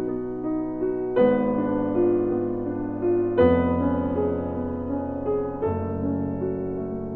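Background piano music: slow, gentle playing with a new chord struck about every two seconds and notes ringing on between them.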